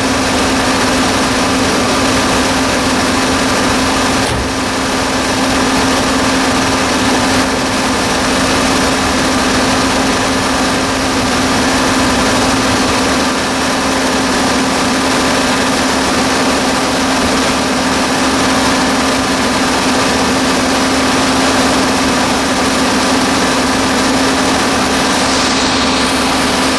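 1994 Chevrolet Impala SS's 5.7-litre LT1 V8 idling steadily and smoothly, shortly after a cold start.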